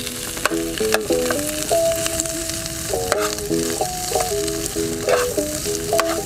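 Sliced sausage and scrambled egg sizzling in a frying pan, with the metal spatula scraping and clicking against the pan now and then as it stirs. A melody of background music plays alongside.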